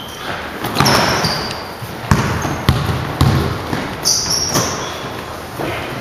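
A basketball bouncing on a gym court in irregular thuds during play, with short high squeaks between the bounces, typical of sneakers on the hardwood.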